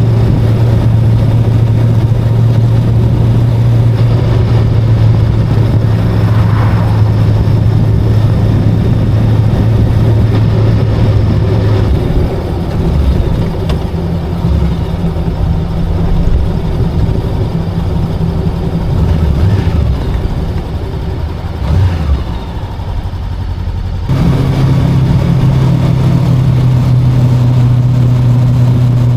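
VOGE 525DSX motorcycle's parallel-twin engine running at steady cruising revs under way, with a steady drone and road and wind noise. About halfway through the drone drops to lower, uneven revs. Near the end it switches abruptly back to a steady higher drone.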